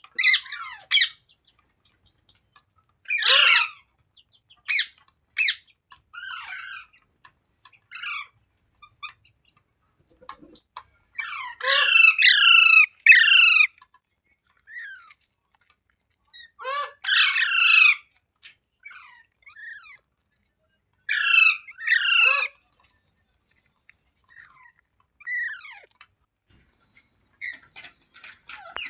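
Ringneck parakeet giving loud, harsh squawking calls in several separate bouts, each a quick run of sliding screeches, with a few fainter chirps in the pauses between.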